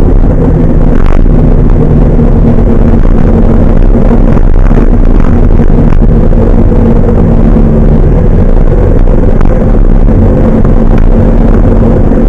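Large truck engine running steadily under load, a loud, continuous low drone with a constant engine note and no pauses.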